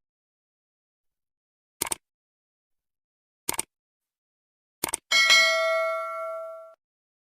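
Three short clicks about a second and a half apart, then a single bell-like ding that rings on for about a second and a half and cuts off abruptly.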